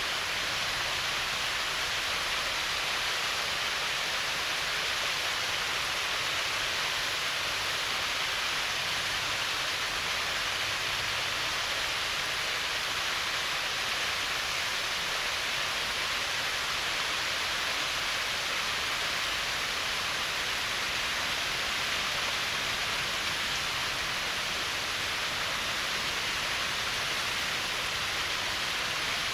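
Small waterfall spilling steadily over a rock ledge: an even, unbroken rush of falling water.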